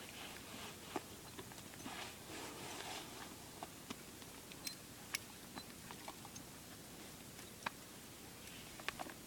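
Faint, sparse sharp clicks and a brief soft rustle about two to three seconds in.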